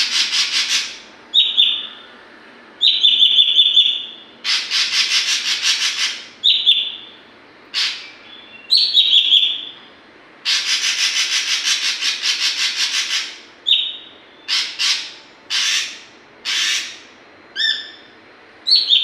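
Ashy drongo singing: short clear whistled notes alternating with long, harsh rattling trills of rapid repeated pulses, the longest lasting nearly three seconds. It is a young bird learning to bring out its taught, mimicked song phrases.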